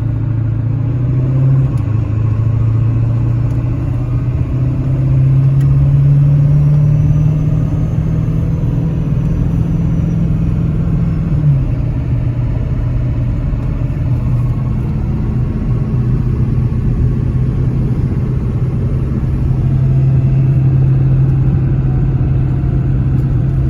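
1996 Ford F-350's 7.3 L Power Stroke turbo diesel V8 pulling hard under acceleration, its drone climbing in pitch, dropping suddenly at a gear shift about eleven seconds in, then climbing again near the end. A faint high turbo whistle rises and falls with the first pull.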